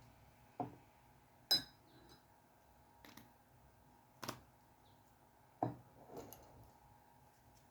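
Half a dozen light, irregularly spaced clicks and clinks of a dip pen against a glass ink bottle; the loudest clink, about a second and a half in, rings briefly like glass.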